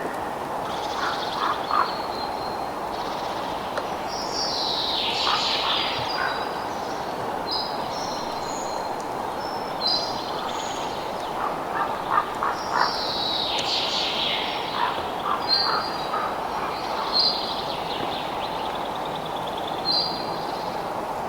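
Outdoor nature soundscape: short, high bird calls repeat every few seconds over a steady hiss. Now and then come quick clusters of lower clicking or chattering notes.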